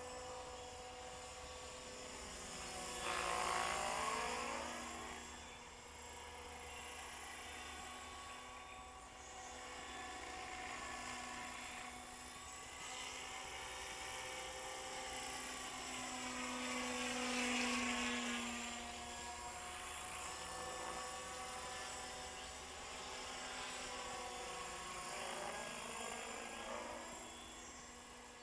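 Radio-controlled Hurricane 550 model helicopter in an Agusta A109 scale body flying: a high whine from its rotor and drive that rises and falls in pitch as it swings past. It is loudest twice, about three seconds in and again midway.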